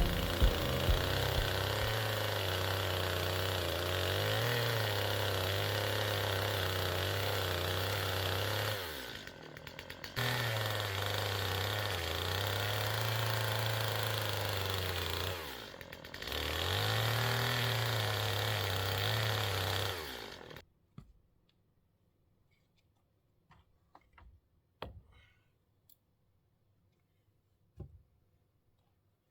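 Chainsaw running at high revs. It drops off and picks up again twice, then shuts off about two-thirds of the way through, followed by a few light knocks.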